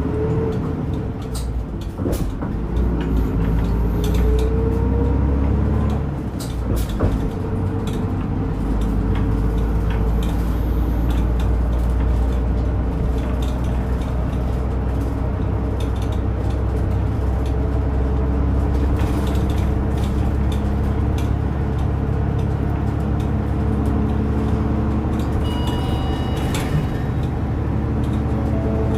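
A route bus heard from inside the cabin: the engine's pitch rises twice over the first several seconds as it pulls away and climbs through the gears, then settles into a steady drone at cruising speed. A short high electronic tone sounds briefly near the end.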